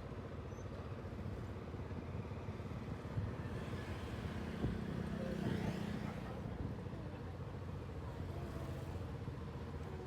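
Motorcycle engine running steadily with a low, fast-pulsing rumble, with another vehicle passing and swelling louder about four to six seconds in.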